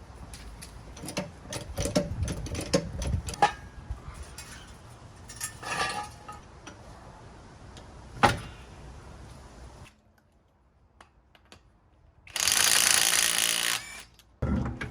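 Metal tools clicking and clanking as they are worked on a car, with a sharp knock about eight seconds in. Near the end comes a loud rushing hiss of about a second and a half, then a short thud.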